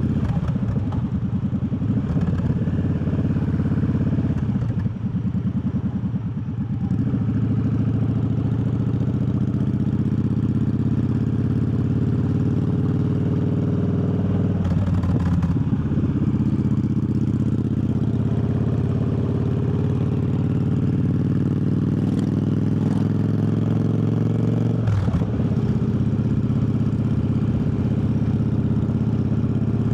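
Triumph Bobber's 1200 cc parallel-twin engine running under way, heard from the rider's seat. The engine note dips and climbs again a few times, most clearly about five, fifteen and twenty-five seconds in.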